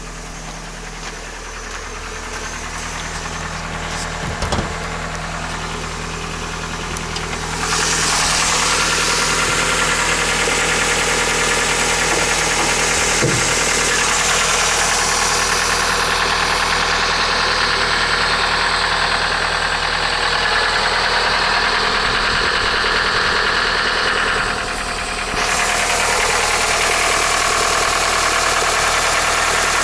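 Toyota 3S-FE two-litre inline-four engine idling steadily, running rough "like a tractor": part of the noise comes from worn camshaft journals in the cylinder head, and a worn alternator bearing adds a jangle. The sound grows much louder about a quarter of the way in and dips briefly near the end.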